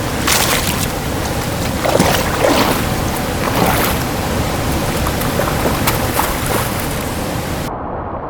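Loud, steady rushing of a waterfall's falling water, with irregular louder splashes.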